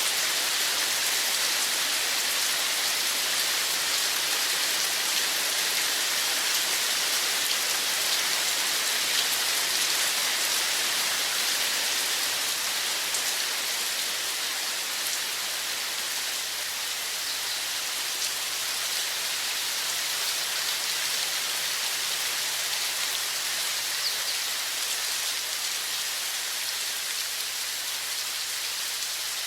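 Running water, a steady even hiss and patter of splashing with no breaks, easing slightly in level after the middle.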